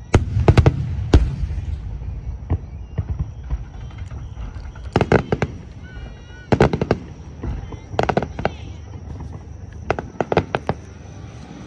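Fireworks display finale: clusters of sharp cracking bangs from bursting shells, several times over, above a continuous low rumble of booms.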